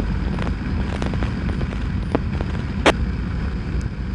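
Motorcycle running on the road with a steady low rumble of engine and wind, and a single sharp click about three seconds in.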